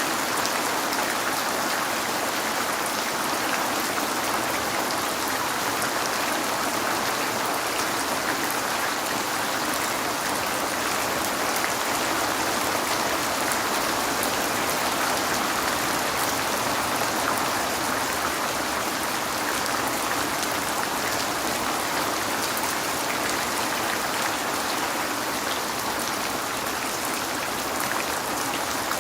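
Steady rain falling, a continuous even hiss with fine drop patter.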